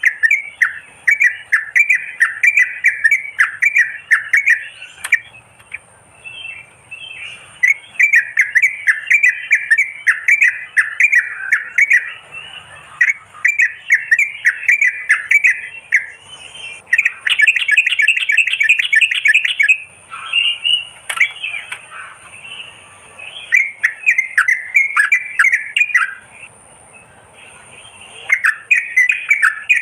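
Yellow-vented bulbul (merbah kapur) calling: phrases of rapid, bubbly chattering notes a few seconds long, repeated with short pauses, played as a lure call.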